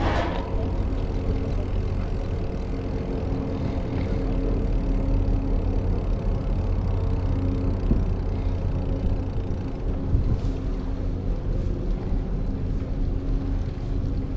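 A motor vehicle engine running steadily: a constant low rumble with a steady hum over it.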